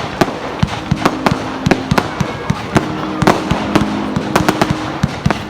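Fireworks going off in a rapid, irregular run of sharp bangs and crackling pops, several a second.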